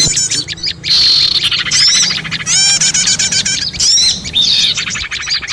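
Small songbirds chirping and trilling, with quick runs of high, hooked notes: a lure call recording for attracting small birds.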